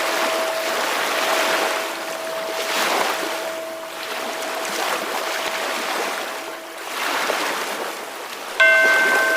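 Ocean waves washing in and drawing back in swells every few seconds, over a steady ringing chime-like tone. Near the end a chime or bell is struck and rings on.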